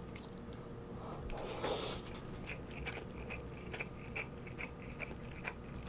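A person chewing grilled beef with the mouth closed: soft, small wet clicks, faint and close, with a short breathy rush about a second and a half in.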